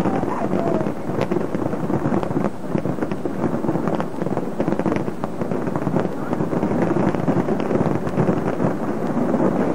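New Year fireworks display going off continuously: a dense, unbroken run of crackles and pops.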